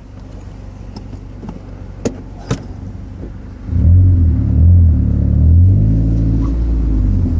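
Car engine idling through its exhaust with a low rumble, two short clicks about two seconds in. About halfway through, the engine is revved and held at higher revs for several seconds, the pitch wavering up and down, before dropping back toward idle near the end.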